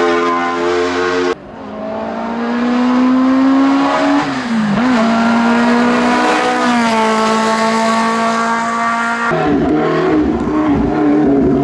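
Racing car engines at high revs on a hillclimb: the engine note climbs, drops briefly at a gear change, then holds high. The sound switches abruptly twice, to a different car.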